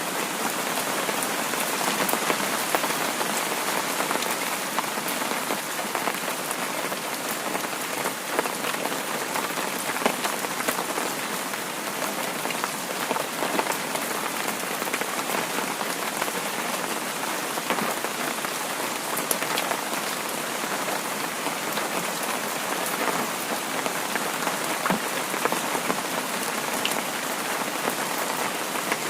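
Heavy rain falling: a steady dense hiss with many small drop ticks scattered through it.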